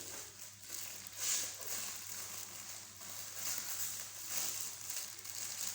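Plastic packaging crinkling and rustling in irregular surges as a package is opened by hand.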